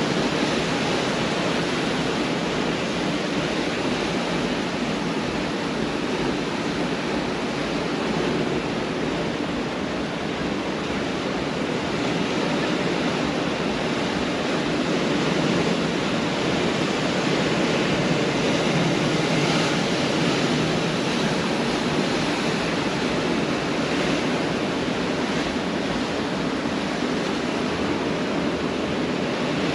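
Pacific Ocean surf: a continuous wash of breaking waves, swelling gently and easing.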